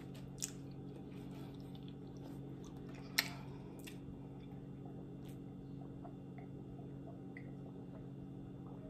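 Faint chewing and wet mouth sounds of a person eating a sauced dumpling, with a few sharp clicks, the loudest about three seconds in, over a steady low hum.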